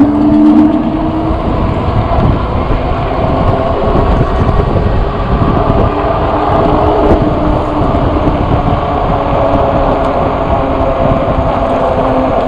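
Steady rush of wind and road noise from a moving e-bike ride, with faint humming tones that drift slowly up and down in pitch.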